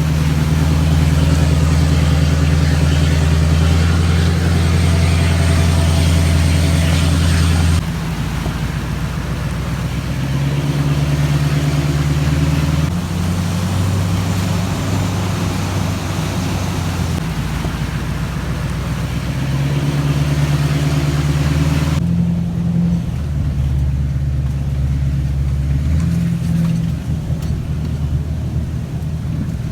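Motor vehicle engine running loud and steady under a continuous noisy rush. Its note shifts to a new pitch several times.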